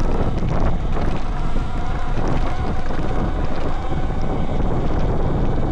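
Wind rushing over the handlebar-mounted camera's microphone while riding an electric dirt bike, with the motor's faint steady whine underneath.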